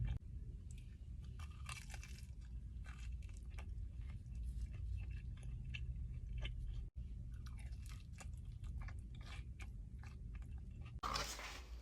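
Close-miked chewing and biting of food, with many short crisp crunches and wet mouth sounds over a low steady hum. The sound cuts out for an instant about seven seconds in.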